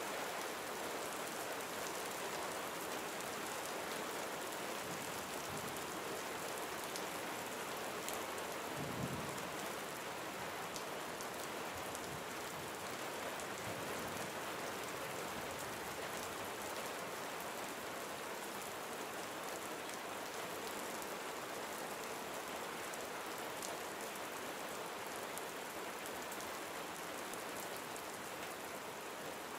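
Gentle steady rain falling on surfaces: an even hiss with scattered individual drop ticks. There is one brief low thump about nine seconds in.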